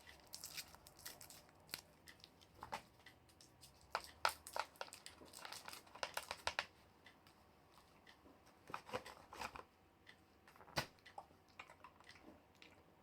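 Crinkling and tearing of a sweet's wrapper in short, irregular crackles, with some chewing.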